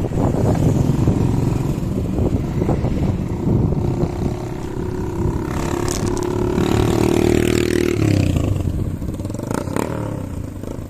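Wind and road rumble while cycling, with a motor vehicle's engine note rising for a few seconds and cutting off about eight seconds in.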